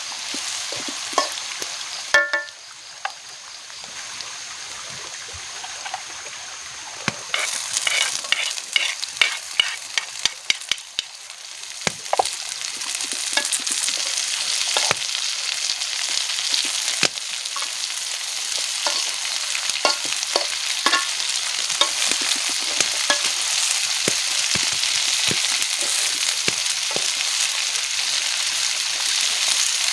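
Food frying in a pan with a steady sizzle that builds from about twelve seconds in, with clinks and a run of taps from a utensil against the pan before it.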